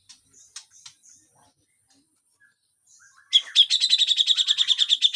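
Cucak jenggot (brown-cheeked bulbul) calling: a few short, high chips, then past the halfway point a loud, harsh, rapid rattling chatter of about ten notes a second, the rough 'besetan' call. It lasts about two seconds.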